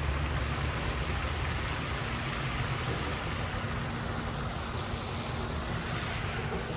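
Wind buffeting the microphone: a steady, fluttering low rumble with hiss, heaviest in the first couple of seconds.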